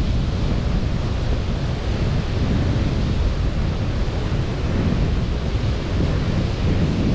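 Sea surf washing on a beach, with wind buffeting the microphone: a steady, deep rushing with no distinct breaks.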